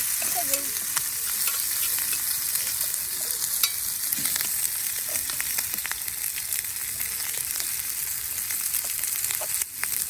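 Food sizzling in a cast-iron skillet over a campfire: a steady frying hiss dotted with small crackles and pops, dipping briefly near the end.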